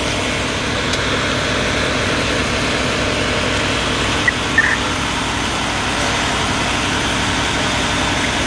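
A motor vehicle engine idling steadily, with a low, even pulsing.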